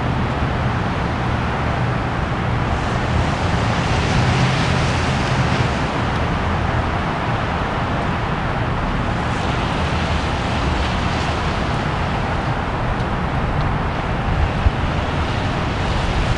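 Steady road-traffic noise, swelling a little about four seconds in and again around ten seconds in.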